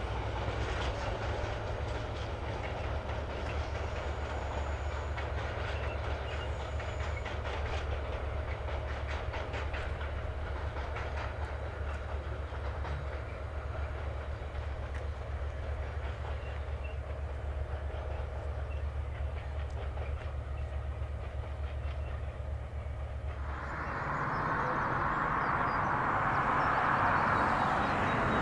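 Freight wagons laden with steel rolling past, their wheels clicking rhythmically over rail joints above a steady low rumble. About 24 seconds in, this gives way to a louder, even rushing noise.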